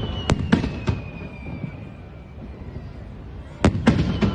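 Fireworks display: shells bursting with sharp bangs, three in quick succession in the first second and three more near the end.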